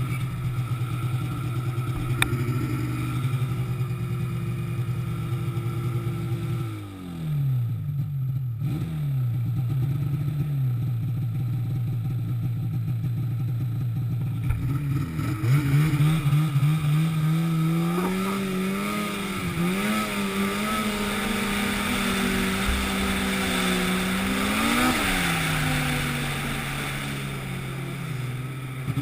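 An engine running, its speed dropping briefly about a quarter of the way through, then rising and wavering up and down before settling back to a steady pitch near the end.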